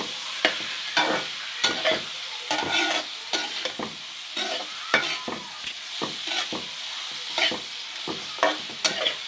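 Onions and ground spices frying in hot ghee in a kadhai, sizzling steadily while they are stirred, with irregular scrapes and knocks of the spoon against the pan about once or twice a second.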